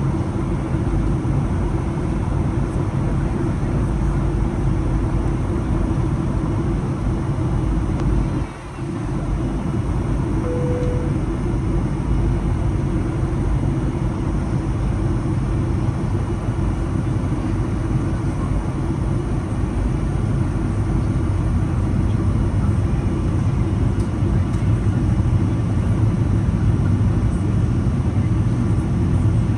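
Steady cabin noise of a Boeing 737-800 airliner, a deep even roar of engines and airflow heard from a forward economy seat. The noise dips briefly a little over eight seconds in, and a short single tone sounds about ten seconds in.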